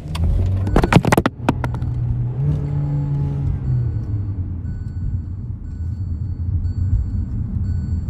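Car door slamming shut with a few sharp knocks, then the car's engine running with a brief rise and fall in revs.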